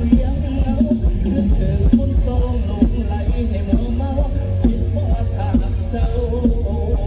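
Live mor lam band music with a steady beat: drum kit and heavy bass under a bending melody line.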